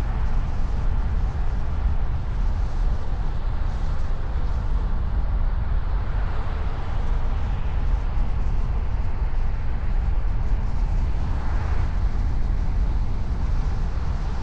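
A car driving: steady low road and engine rumble with tyre noise, swelling briefly twice, partway through and again near the end.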